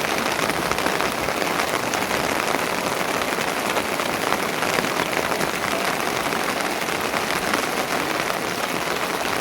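Steady rain falling, a dense even patter of many small drop impacts that doesn't let up.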